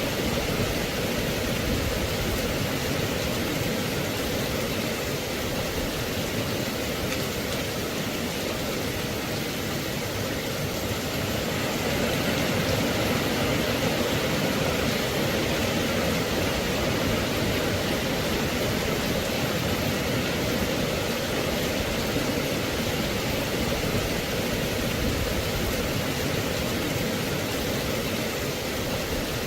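Steady rain falling, an even hiss with no single drops, thunder or other events standing out.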